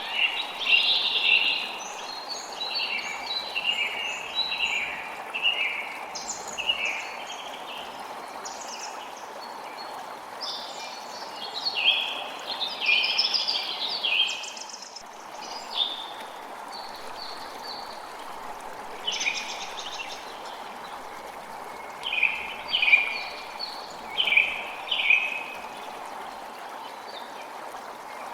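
Creek water flowing steadily, with songbirds chirping in short repeated phrases over it, in clusters separated by pauses of a few seconds.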